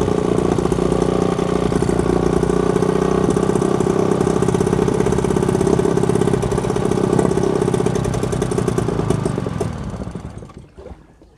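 Small petrol boat engine running steadily, then dying away about ten seconds in, stopped with its fuel already shut off by covering the carburettor air intake by hand.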